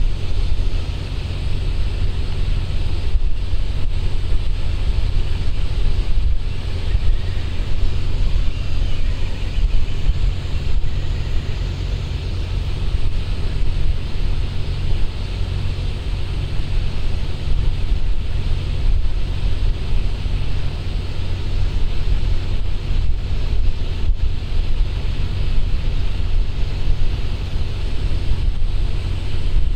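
Wind buffeting the microphone: a steady, loud low rumble with a hiss over it.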